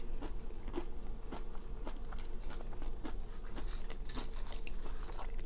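Close-miked chewing of crunchy nacho tortilla chips: many small irregular crunches and clicks, over a faint steady hum.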